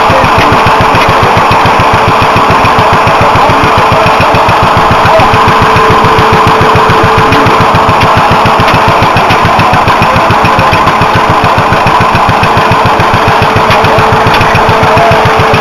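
Stationary engine running steadily at close range, with a fast, even firing beat and a steady tone above it.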